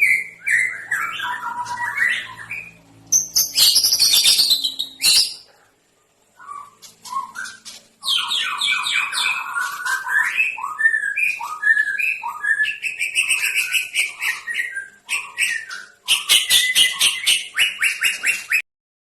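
Songbird at a breeding farm singing a varied song of loud whistled phrases and rapid trills. The song breaks off briefly about six seconds in and stops abruptly near the end.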